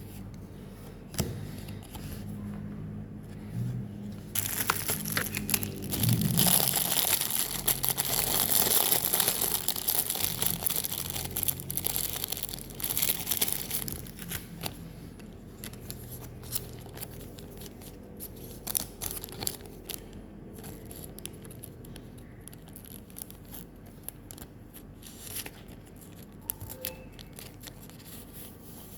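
Foil booster-pack wrapper crinkling and tearing open, with a dense rustle for several seconds, then lighter scattered clicks and rustles.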